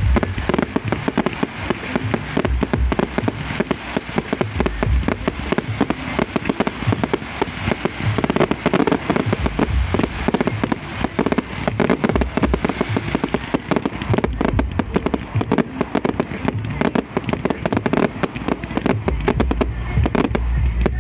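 Fireworks display going off without pause: dense rapid bangs and crackling, with deep booms from bursting shells.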